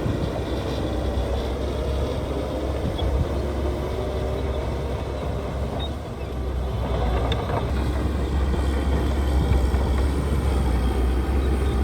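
Diesel engine of heavy earthmoving equipment running with a deep, steady rumble. It eases briefly about six seconds in, then runs louder, with a few light knocks around that point.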